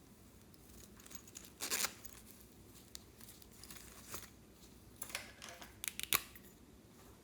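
Clear slime being handled by hand, giving scattered short sticky crackles and clicks, a group of them just before two seconds in and a denser run about five to six seconds in.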